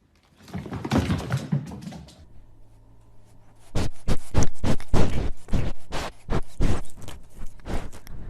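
A short stretch of rustling or scuffling, then a quick irregular run of knocks or thumps, about three a second, starting just under four seconds in.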